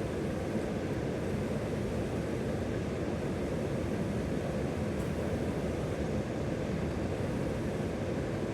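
Steady, even rushing of river water.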